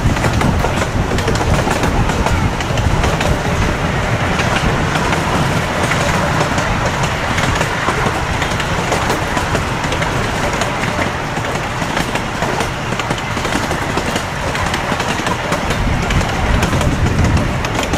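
Amusement-park train running along its track: a steady rumble with rapid clicking of the wheels over the rails.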